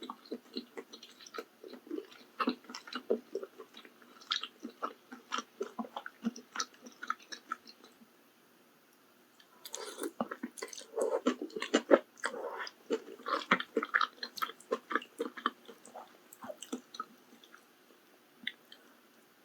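Close-miked chewing of mala tang, wet mouth clicks and smacks with some crunch. The chewing pauses briefly about eight seconds in, then a new, louder mouthful follows.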